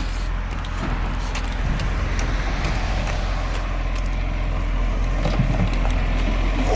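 Garbage truck engine running steadily, a low rumble with road noise around it.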